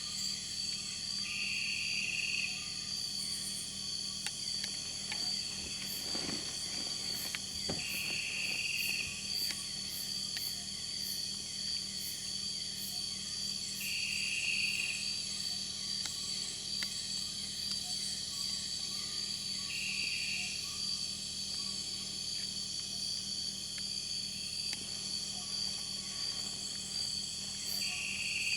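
Night rainforest insect chorus: a steady, high-pitched drone of crickets and other insects, with a short buzzing call repeating about every six seconds.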